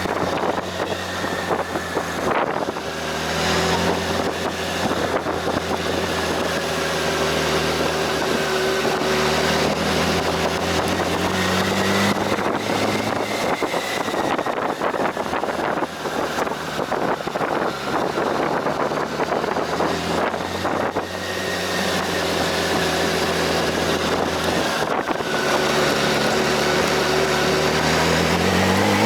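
Vehicle engine running steadily while driving, with wind rushing over the microphone; the engine note rises briefly about twelve seconds in and again near the end as it speeds up.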